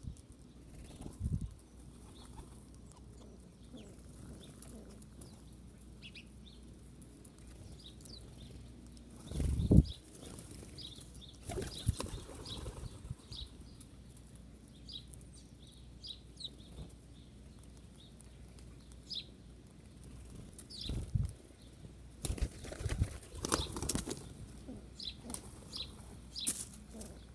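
Wild birds flapping their wings in short rushes as they fly in and out, the loudest flurry about ten seconds in and a cluster near the end, with many brief high chirps from small birds throughout.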